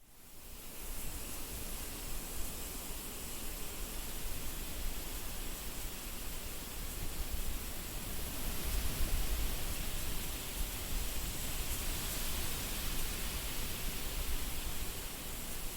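Wind blowing steadily, fading in from silence at the start, with a low rumble that swells in gusts, strongest about nine seconds in.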